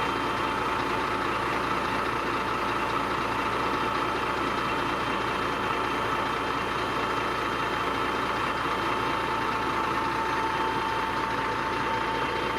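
Diesel engine of a heavy earthmoving machine, a bulldozer or excavator, running steadily with a constant high whine over it.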